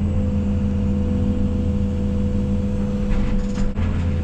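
Case CX220E excavator's diesel engine running steadily under work, a constant drone with a steady tone in it. The drone dips briefly about three-quarters of the way through.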